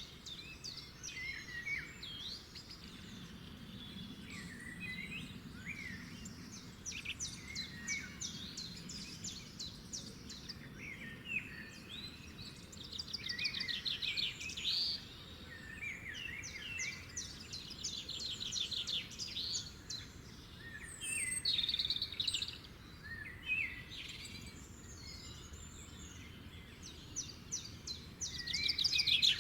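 A chorus of several songbirds singing at once: overlapping chirps, fast trills and short whistled phrases, over a faint steady background hiss.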